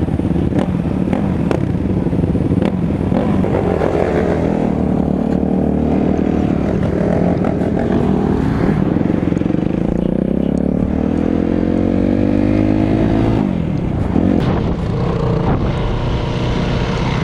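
Off-road vehicle's engine running under way. Its pitch climbs steadily for several seconds as it accelerates, then drops sharply about thirteen seconds in.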